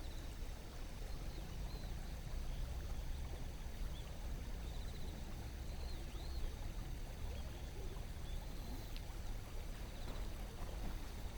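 Shallow river water flowing and rippling steadily over stones, with a few faint bird chirps scattered through.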